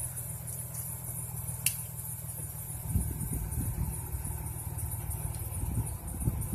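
Truck engine idling steadily, with a sharp click about two seconds in and a few low knocks later.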